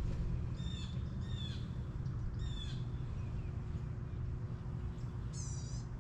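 A bird calling four times in short calls, three close together and the last near the end, over a steady low rumble.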